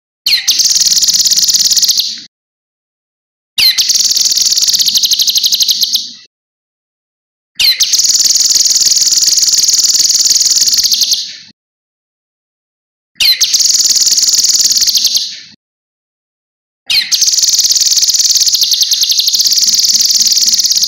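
Cucak kinoi songbird singing five long, fast, high-pitched trilling phrases of two to four seconds each, separated by short pauses.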